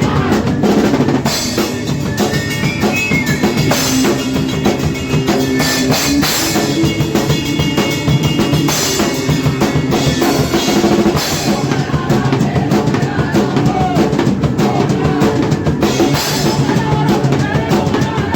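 Hardcore punk band playing loud and fast: a drum kit pounding bass drum and snare with crashing cymbals under a dense wall of distorted guitar and bass.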